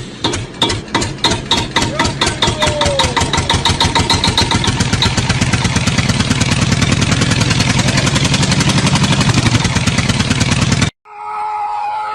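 An engine or motor running, its even pulses speeding up from about three to about ten a second, cut off suddenly near the end.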